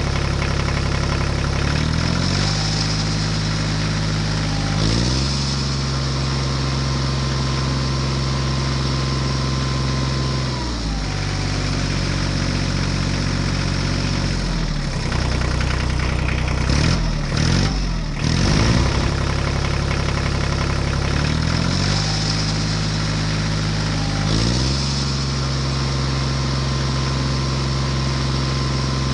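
Tractor engine running, its pitch stepping up, holding, and dropping back down several times, with a brief wavering stretch in the middle. The same rise-and-fall pattern repeats about twenty seconds apart, like a looped engine track.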